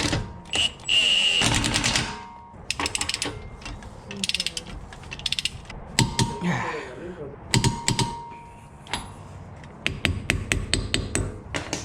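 Metal clicks and knocks from a shop press as wheel bearings are pressed into brake drums, in irregular bunches with short scraping bursts between.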